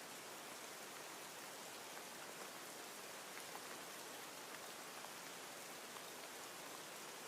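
Steady rain falling, a fairly quiet even hiss with scattered faint drop ticks.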